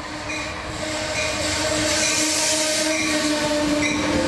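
Commuter passenger train passing close by on the adjacent track: the rush of wheels and coaches grows louder through the first two seconds and stays loud, with a steady held note running through it.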